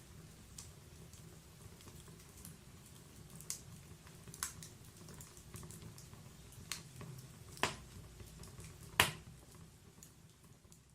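Wood fire in a log-burning fireplace crackling over a low steady rumble, with sporadic sharp pops, the loudest about nine seconds in. The sound begins to fade out near the end.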